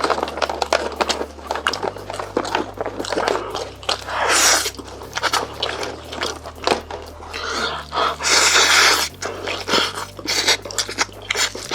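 Close-miked eating sounds of someone eating chicken: wet chewing, biting and mouth smacking, with irregular clicks throughout and two louder, longer wet stretches about four and eight seconds in.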